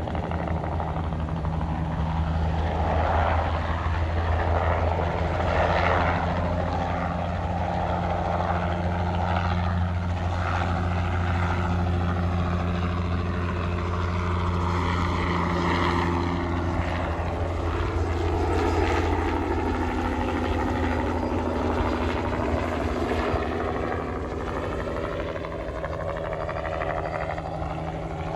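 Crop-spraying helicopter flying past: a steady rotor and engine drone that swells and eases as it passes, with a slow sweeping, phasing change in pitch.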